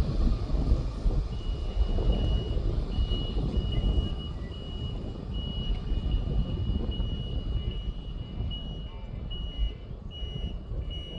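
Low rumble of a departing jet airliner slowly fading, with a vehicle's reversing alarm beeping over it in a steady run of high beeps from about a second in.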